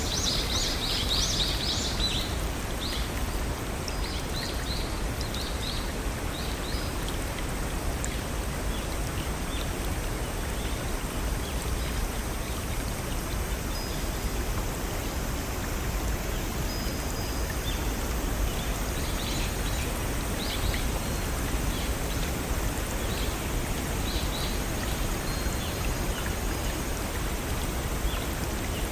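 Small waterfall and brook water running steadily. Birds chirp over it: a quick cluster of high chirps at the start, then scattered fainter ones.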